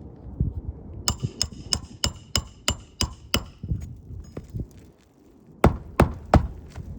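Hammer striking roofing nails on a shingle roof: a quick run of about eight ringing strikes, about three a second, then a short pause and three heavier blows near the end.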